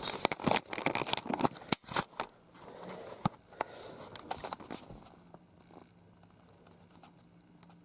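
Close handling noise: a quick run of sharp clicks and rustles for the first couple of seconds, then sparser light taps, typical of hard plastic toys and packaging being moved about by hand.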